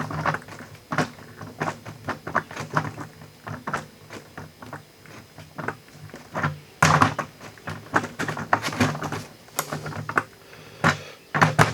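Irregular knocks, clicks and clatter of a plastic waterer bucket and its fittings being handled, growing louder and busier from about seven seconds in.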